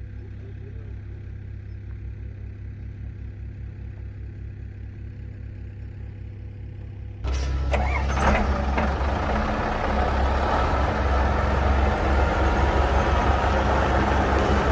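Old GMC logging truck's engine running with a low, steady, pulsing rumble, then about seven seconds in the sound suddenly becomes much louder and fuller as the truck works harder.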